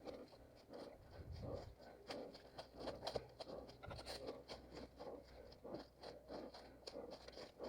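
An orienteer's running footsteps on forest floor, crunching and scraping over dry leaf litter and twigs with rustling in between, a few steps a second.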